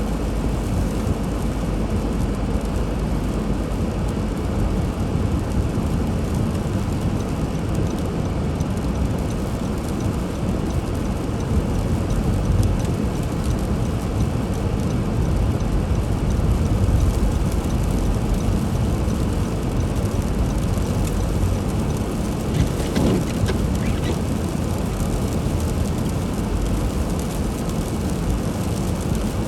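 Steady road noise of a car being driven through a snowstorm: a low, even rumble of engine and tyres with a hiss over it.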